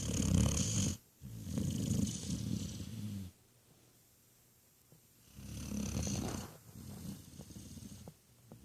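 A sleeping puppy, a pit bull, weimaraner and shar-pei mix, snoring: two long rasping snores, each in two parts, with a quiet pause of about two seconds between them.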